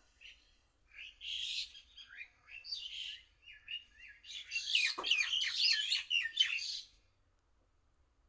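A bird calling: short chirps and whistled notes begin about a second in, build into a fast, busy run of warbling notes around the five-second mark, and stop about seven seconds in.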